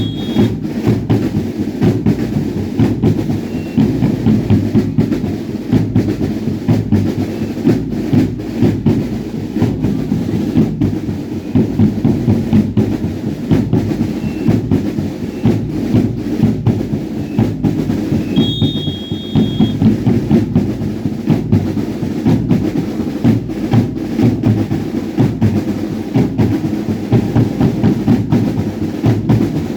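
Drums beating a fast, steady dance rhythm, with two brief high tones, one near the start and one about 18 seconds in.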